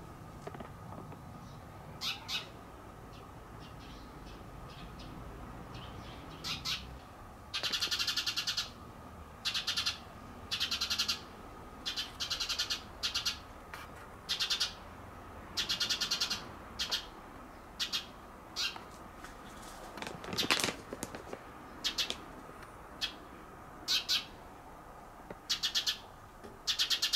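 A bird calling over and over: short high calls, a fraction of a second to about a second long, sparse at first and coming every second or so from about a quarter of the way in. A faint steady tone sits underneath.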